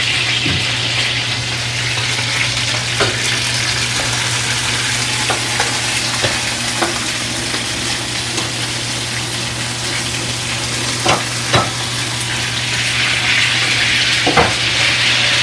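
Food sizzling steadily in a pan on the stovetop, with a few light knocks of cookware here and there.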